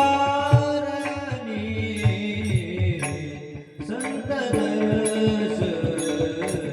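Warkari kirtan singing: a singer holds a long, wavering note at the start and sings another drawn-out phrase about four seconds in, over instrumental accompaniment with regular drum strokes.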